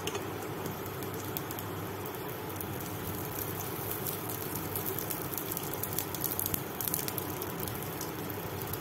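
Fish roe fritters shallow-frying in oil in a nonstick pan over low heat: a steady sizzle with crackling pops that grow busier about three seconds in.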